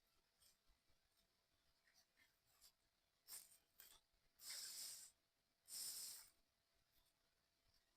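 Small puzzle-kit parts being handled: faint scattered clicks, then two scraping rubs, each about half a second long, one right after the other near the middle.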